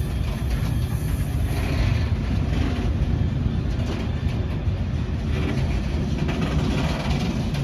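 A diesel-hauled freight train passing close by, a loud steady rumble of wagons and engine with no break or change.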